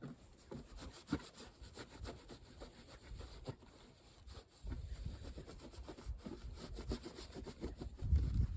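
Irregular rubbing and scrubbing strokes as a lawn tractor's gas tank is cleaned by hand, busier and louder from about halfway through.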